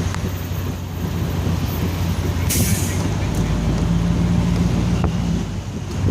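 A vehicle's engine running with a steady low hum, with a short hiss about two and a half seconds in.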